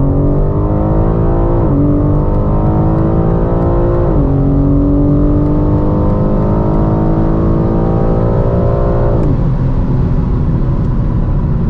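BMW M4 Competition's twin-turbo straight-six, with the M Performance exhaust, under full-throttle acceleration. The engine note climbs steadily through each gear and drops sharply at three upshifts, at about two, four and nine seconds in.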